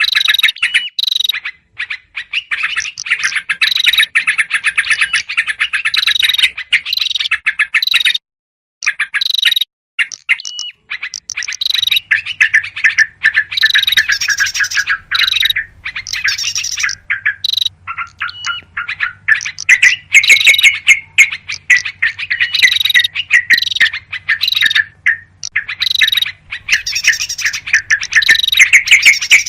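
Bird-lure recording of agitated yellow-vented bulbul calls mixed with other small songbirds: dense, rapid chattering and chirping in runs broken by short gaps. A faint low steady hum comes in about twelve seconds in.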